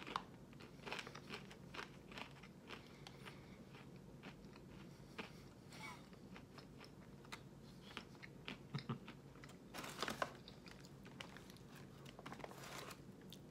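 Mouth chewing and crunching a piece of peanut butter pretzel snack mix: faint, irregular crunches, denser about ten seconds in and again near the end.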